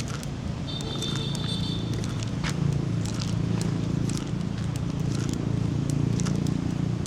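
Footsteps and scattered clicks over a steady low hum, with a brief high beep about a second in.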